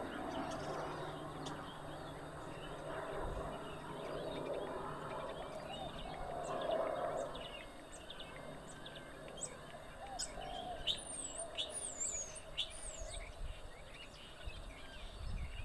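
Common starlings calling: a jumble of chatter, then sharp clicks and quick high whistles that rise and fall, clearest in the second half.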